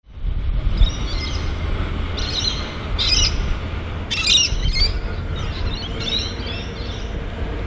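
Birds chirping and calling in short clusters over a steady low rumble.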